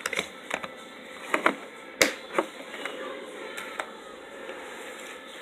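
Items being handled and set down: a scatter of light clicks and taps, the sharpest about two seconds in.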